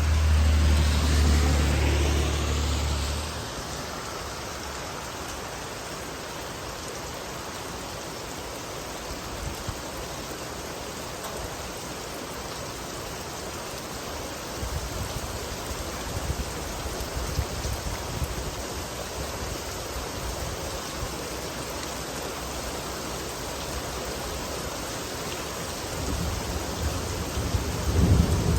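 Steady rain falling, with a car passing on the wet road in the first three seconds. Low rumbles of thunder come in from about the middle and grow louder near the end.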